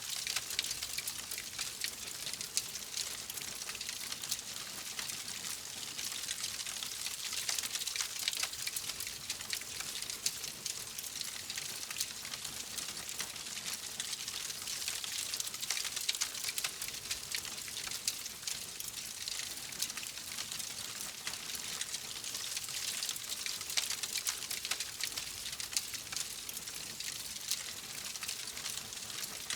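Wood fire crackling steadily: a dense stream of small pops and snaps over a soft hiss, with no pauses.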